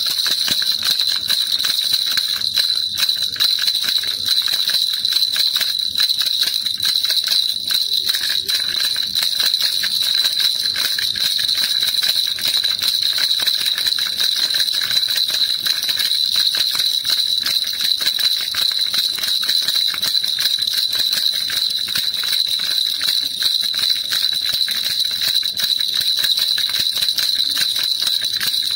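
Baby rattle shaken continuously, a steady dense jingling with a bright ringing tone that doesn't let up.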